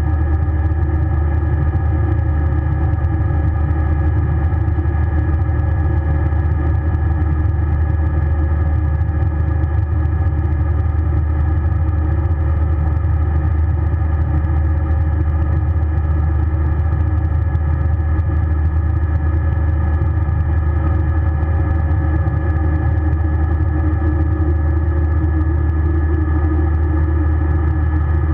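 Airbus A320 cabin noise: its jet engines and airflow make a steady drone with a strong low hum and a few steady tones above it, unchanging throughout.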